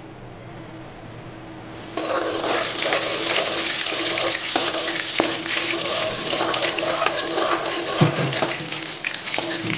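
Hot oil in a wok bursts into loud, steady sizzling about two seconds in, as a spice paste is dropped in. A metal spoon scrapes and knocks against the wok as the paste is stirred.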